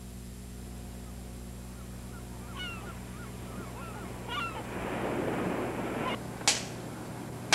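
A few short bird calls, honk-like, over a steady low hum, followed by a brief rush of noise and a single sharp click about six and a half seconds in.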